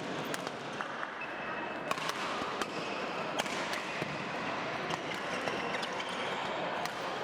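Badminton rally in a sports hall: irregular sharp cracks of rackets hitting the shuttlecock, over steady background hall noise.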